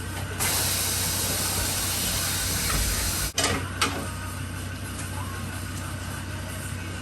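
A loud steady hiss for about three seconds that cuts off sharply, then two short hisses in quick succession, over a constant low hum.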